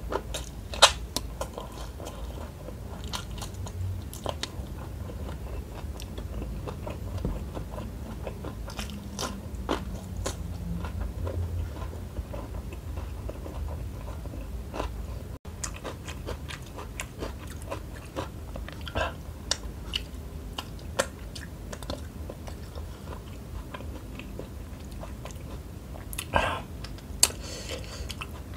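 Close-miked chewing of shrimp coated in chili sambal: wet mouth sounds with irregular sharp clicks and crunches.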